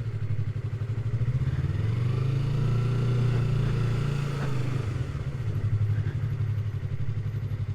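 Yamaha MT-03 motorcycle engine running at low revs with a steady, pulsing note. The revs lift slightly a couple of seconds in and then settle back.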